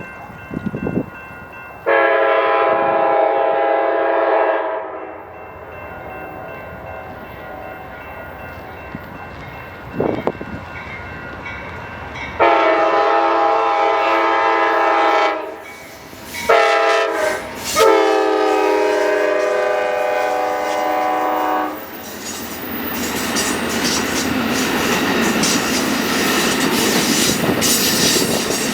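Amtrak passenger train's locomotive horn sounding long, long, short, long, the grade-crossing warning. Then the train approaches and passes close by with a rising rush of wheels on rail.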